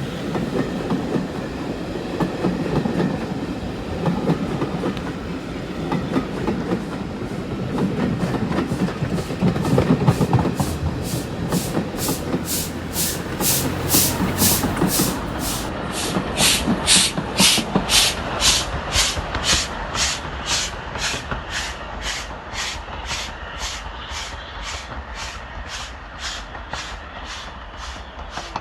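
Steam train hauled by Flying Scotsman, an LNER A3 Pacific locomotive, passing close: a heavy rumble first, then from about ten seconds in a steady rhythm of sharp beats, a little over two a second, slowly fading as the train draws away.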